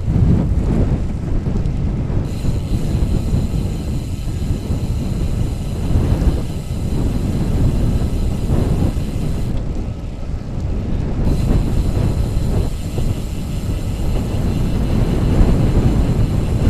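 Wind and riding noise on the microphone of a moving bicycle: a steady, low, gusting noise as the rider pedals along the road.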